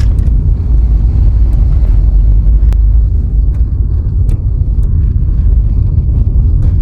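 A car on the move: steady, loud low road rumble, with scattered light ticks over it.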